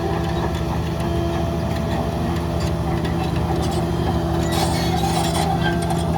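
Heavy diesel earthmoving machinery running steadily under load, with a brief rattling clatter about four and a half seconds in.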